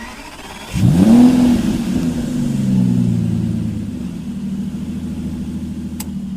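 A motor spins up with a quick rising whine about a second in, then runs on as a steady hum that eases slightly lower; there is a sharp click near the end.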